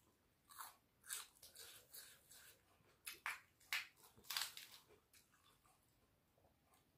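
Close-up eating sounds of a person chewing mouthfuls of rice and pork curry: a quick run of short wet smacking and chewing noises, thickest in the first five seconds, then only faint ones.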